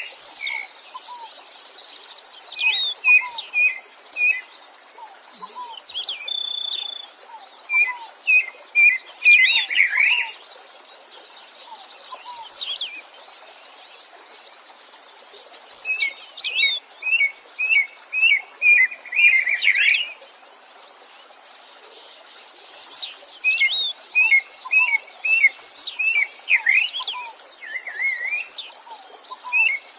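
Songbirds singing repeated phrases of quick chirping notes, each phrase with a high whistle that sweeps steeply downward, coming every few seconds over the faint steady hiss of a stream.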